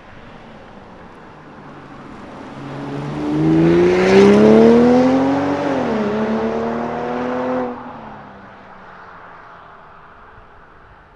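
BMW X5 45e's turbocharged inline-six accelerating hard through an OPF-delete midpipe and valved catback exhaust. The engine note swells and rises in pitch, dips at an upshift about six seconds in, climbs again, then cuts off sharply as the throttle lifts and fades away.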